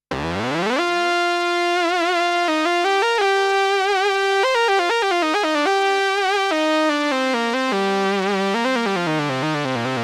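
Korg Prologue analog polyphonic synthesizer playing a bright lead patch: it opens with a rising pitch glide into a held note, then plays a melody of held notes with a wavering vibrato, dropping to lower notes near the end.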